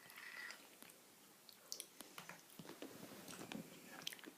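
Faint chewing with scattered light clicks, close to near silence.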